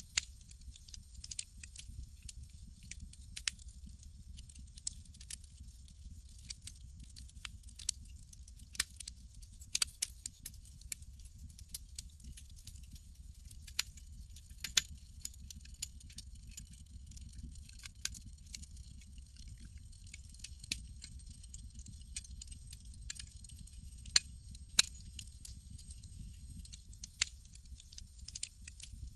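Campfire crackling: irregular sharp pops and snaps, a few louder than the rest, over a steady low rumble and a soft high hiss.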